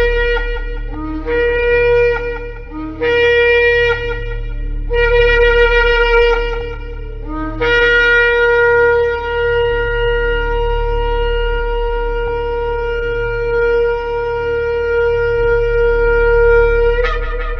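Shofar blown in several shorter blasts, each starting on a low note and jumping up to a higher one. Then comes one long held blast of about nine seconds that ends with a brief sharp rise in pitch.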